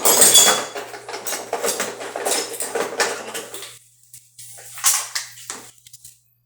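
Hard objects clinking and clattering together, with metallic knocks: a dense run for about four seconds, then a few more knocks about five seconds in.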